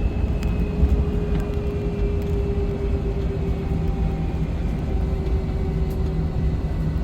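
Jet airliner engines and airflow heard inside the passenger cabin: a steady rumble with an engine whine whose pitch drifts slowly down.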